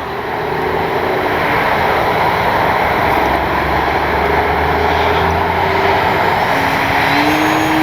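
The electric brushless motor and propeller of an E-flite Piper Cherokee RC airplane, heard in flight as it climbs at power. A faint motor whine drifts down and back up in pitch near the end, over a steady rush of noise.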